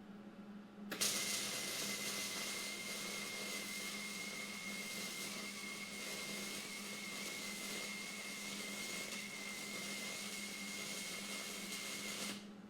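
A power tool starts about a second in and runs steadily, with a constant high whine, for about eleven seconds, then stops.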